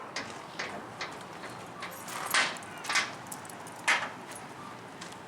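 A series of short, sharp clicks and knocks at uneven intervals, the loudest three about two and a half, three and four seconds in.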